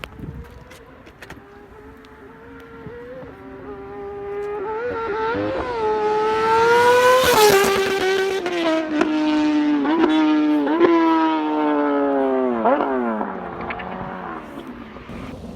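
High-revving superbike engine passing by: it grows louder, is loudest about seven and a half seconds in, then fades away. Its pitch jumps and dips several times as the throttle opens and closes, and it slides down sharply near the end.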